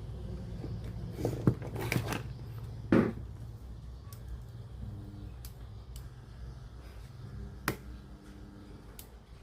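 Several sharp clicks and knocks from handling a cassette radio on the repair bench, over a steady low hum.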